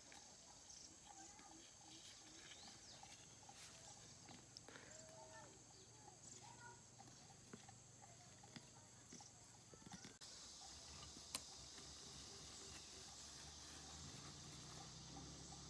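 Faint countryside ambience with scattered small animal calls. About ten seconds in, the background changes abruptly to a steadier hiss and low hum, and a single sharp click follows a second later.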